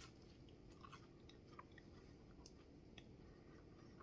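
Faint chewing of a crispy quesadilla with a crunchy tostada shell inside, with scattered soft crunches and clicks.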